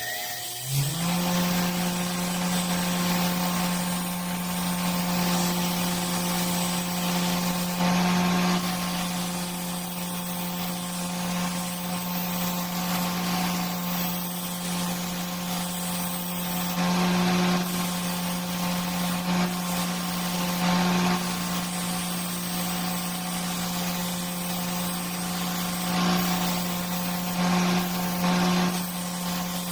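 An electric power tool motor starts about a second in and runs at a steady pitch, with a hissing grinding noise on top that swells briefly several times.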